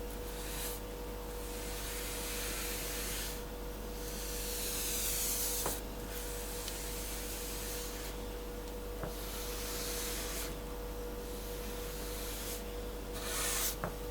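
Paint being brushed on in long rubbing strokes, one after another about every two seconds, over a faint steady hum.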